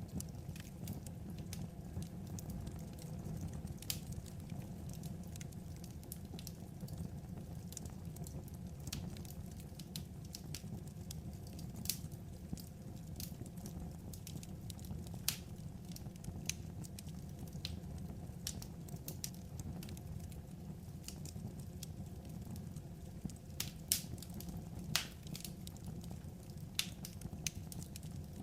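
Wood fire burning with a steady low rumble and irregular crackles and sharp pops.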